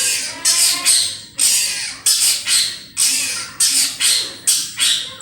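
Long-tailed shrike (cendet) calling actively: a rapid series of harsh, rasping calls, about two a second, each starting sharply and fading.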